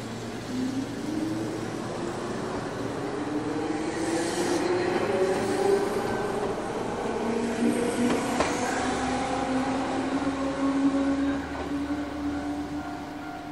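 Two-car Omi Railway electric train pulling away from a station, its motor whine rising in pitch as it gains speed, with a second rise about seven seconds in. A sharp click sounds about eight seconds in, and the train fades as it draws away.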